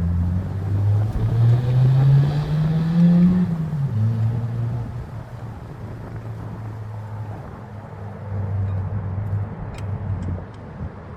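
A motor vehicle's engine: its pitch rises for about three seconds, drops about three and a half seconds in, then runs steadily. A few light metallic clicks come near the end.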